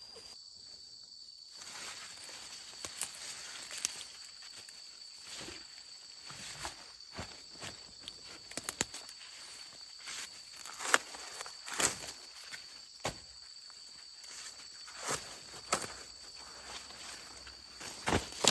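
Footsteps and rustling through dry corn plants, with irregular sharp cracks and snaps, over a steady high-pitched insect drone.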